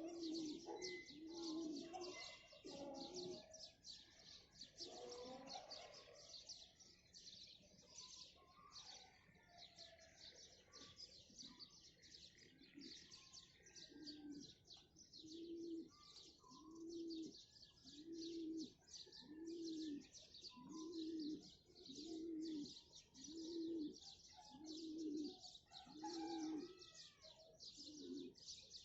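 A dove cooing in a regular run of short low coos, about one every second and a bit through the second half. This sits over constant high chirping of small birds.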